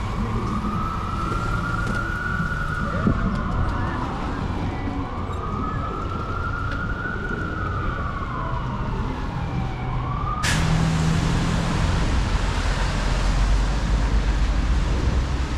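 Emergency vehicle siren on a city street, wailing slowly up and down in pitch about twice, with street noise beneath. About ten seconds in the siren breaks off and a louder, steady hiss takes over.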